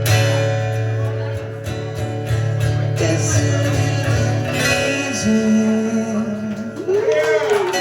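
Live acoustic guitar strumming with a male voice, closing out a song. The chords ring on, and a single sung note is held for about a second and a half about five seconds in.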